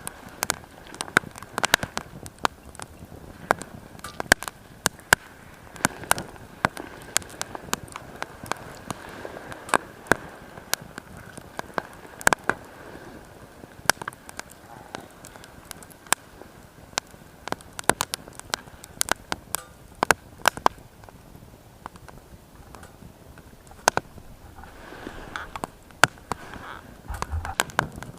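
Wood fire crackling in a small Firebox mini stove: irregular sharp pops and snaps, many a second at times, over a faint steady hiss.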